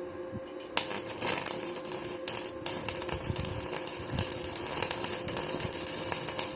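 Stick (MMA) welding arc from an ISKRA PROFI MMA-350 inverter welder, struck suddenly about a second in and crackling irregularly from then on. A steady hum runs underneath.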